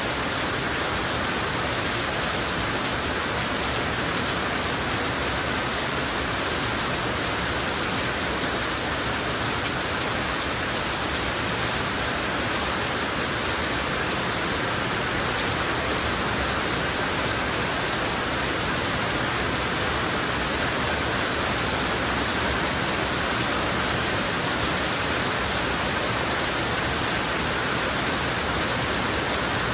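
Heavy rain falling steadily, a dense unbroken hiss with no pauses or single loud drops standing out.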